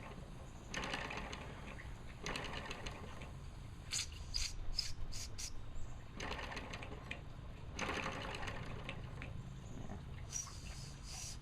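Mamod SE2 live-steam model engine running with a light mechanical clatter, with short bursts of steam hiss about four seconds in and again near the end.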